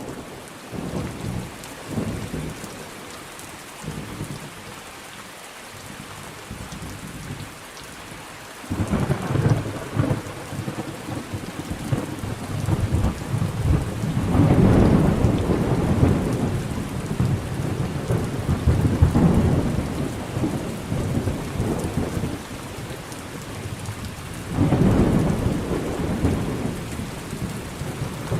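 Thunderstorm: steady rain with rolling thunder. A thunderclap breaks in suddenly about a third of the way through and rumbles on, swelling loudest in the middle, with another surge of thunder near the end.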